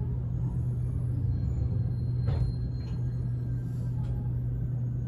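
Steady low hum of a JR Shikoku 8000 series express car's onboard equipment while the train stands at a platform. A faint click comes about two seconds in, with a weaker one just after.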